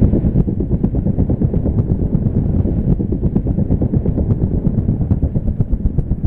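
Strong wind buffeting the microphone: a loud, dense low rumble with rapid fluttering.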